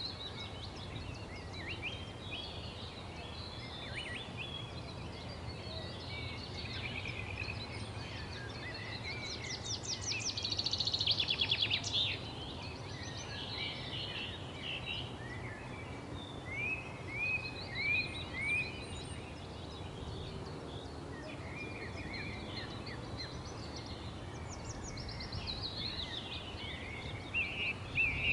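Several wild birds chirping and singing at once over a steady low background hiss, with a fast, loud trill about ten seconds in, a run of four short down-slurred whistles a little later, and another trill near the end.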